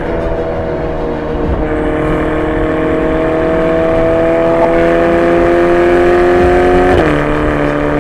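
Ferrari Portofino's twin-turbo V8 held at raised revs that climb slowly, then falling back to idle about seven seconds in.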